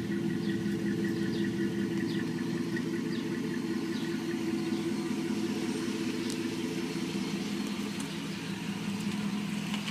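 2007 Dodge Charger R/T's 5.7-litre Hemi V8 idling steadily through a Flowmaster American Thunder cat-back exhaust.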